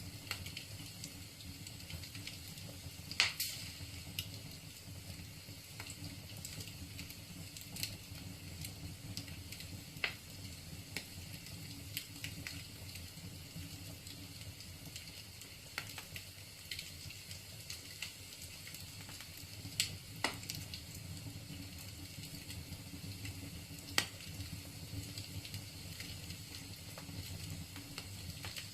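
Wood fire burning in a fireplace: a steady low hiss and crackle with scattered sharp pops from the burning logs, the loudest about three seconds in.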